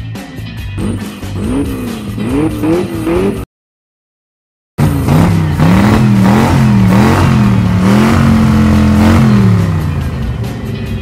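Cartoon vehicle engine sound effects revving up and down over background music. The sound cuts out briefly about a third of the way in, returns louder with repeated rising and falling revs, then winds down near the end while the music carries on.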